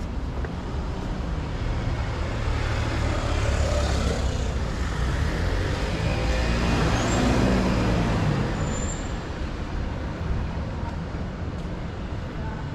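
A motor vehicle passes close by in street traffic. Its low engine rumble builds over several seconds, peaks about seven seconds in with its pitch dropping as it goes by, then fades. Two brief high squeaks come near the loudest point.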